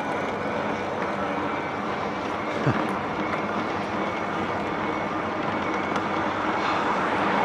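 Steady rush of wind and tyre noise from a moving e-bike, growing slightly louder toward the end.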